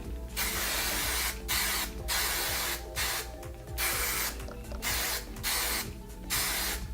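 Aerosol hairspray can spraying in about eight short hissing bursts in quick succession, used to hold down the lace of a lace-front wig.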